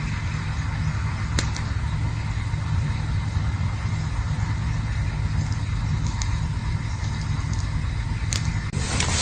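Campfire burning: a steady low rumble with a soft hiss over it and a few sharp crackles from the burning wood. Just before the end, a louder rush of crackling noise.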